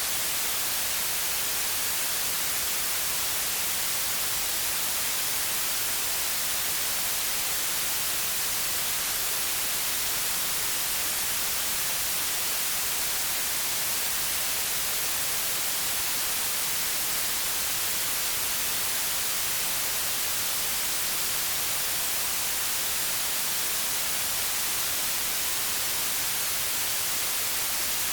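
Steady white noise: an even, unchanging hiss with no breaks, weighted toward the high end.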